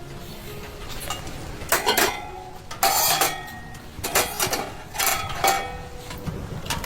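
A handful of sharp clinks and knocks of hard objects, each with a brief ring, spaced about a second apart.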